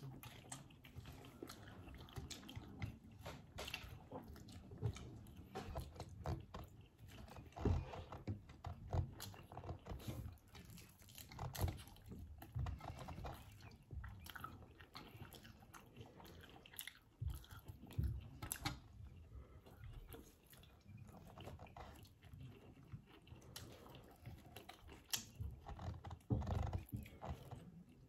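Close-up chewing and biting of crispy fried chicken: wet mouth sounds with irregular smacks and clicks.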